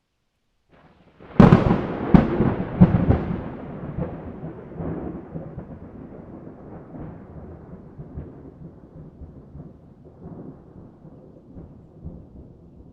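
A thunderclap: a sudden crack about a second and a half in, two more sharp cracks close behind it, then a long rumble that slowly fades away.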